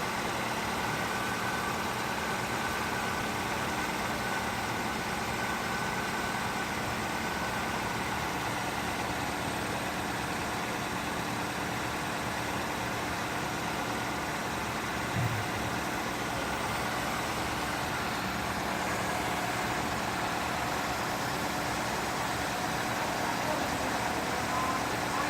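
Car engine idling steadily with the air conditioning running on max, while an A/C recharge machine charges refrigerant. A brief low bump about fifteen seconds in.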